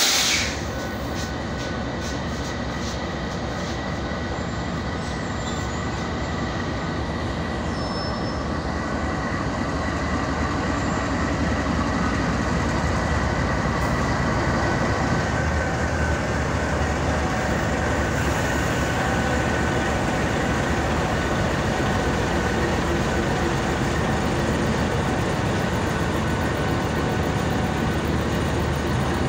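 Pakistan Railways GEU-20 diesel-electric locomotive pulling a passenger train out of the station. Its engine runs as it passes close by, then the coaches roll past on the rails, getting louder as the train gathers speed. There is a brief loud burst at the very start.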